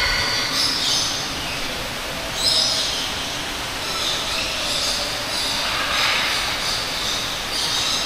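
Tropical birds giving harsh, screeching calls, several in a row at irregular intervals of a second or two, over a steady background hiss.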